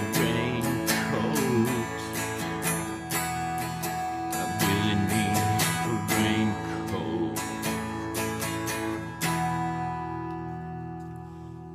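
Acoustic guitar strummed with no singing. About nine seconds in it stops on a last chord that rings out and fades.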